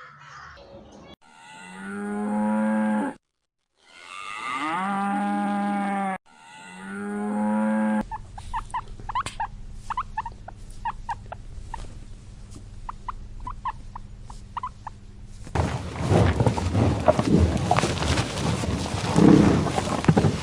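A cow mooing: three long calls in a row, each with a pitch that rises then falls. They are followed by a stretch of short high chirps, and near the end by a louder, rough, noisy sound.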